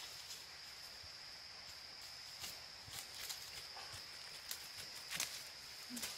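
Steady high-pitched insect drone, with scattered light clicks and taps over it, the sharpest a little after five seconds in.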